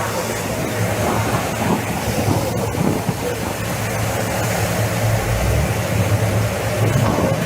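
Steady vehicle engine hum under a constant rushing noise on a body-worn camera microphone.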